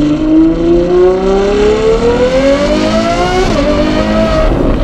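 Ferrari 812 GTS's naturally aspirated 6.5-litre V12 with a Novitec sport exhaust, accelerating with its pitch climbing steadily, then dropping sharply at an upshift about three and a half seconds in before carrying on at a steady note.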